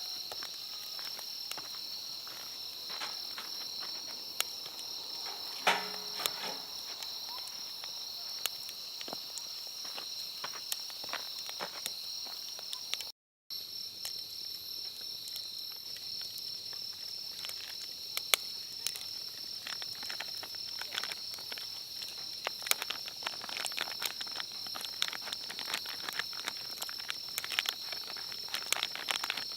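Steady insect chorus of crickets or similar, a continuous high-pitched trill on two close pitches. Many small clicks and ticks are scattered over it, thickening near the end.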